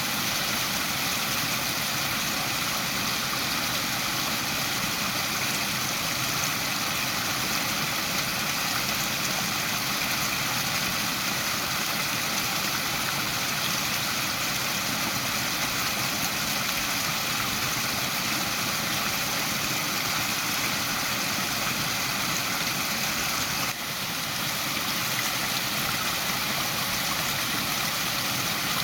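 Waterfall rushing in a steady, even wash of falling water, dipping briefly in level once near the end.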